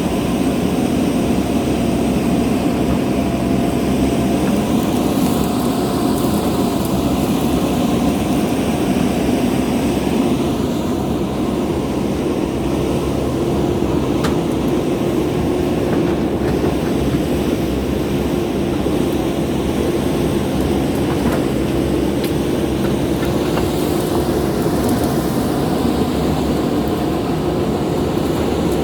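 JCB backhoe loader's diesel engine running steadily, a constant hum with a low rumble.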